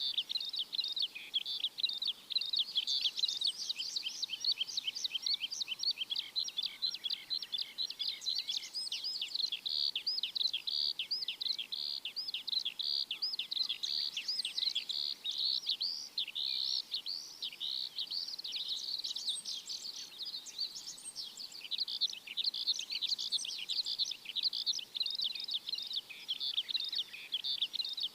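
A chorus of many small birds chirping, a dense, unbroken stream of quick high chirps overlapping one another.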